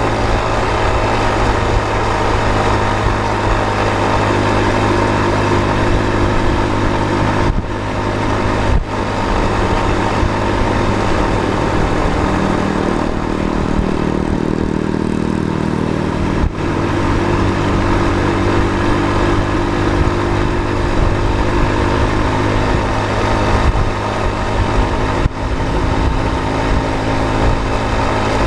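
A motor vehicle's engine running steadily on the road, with a few short dips in sound.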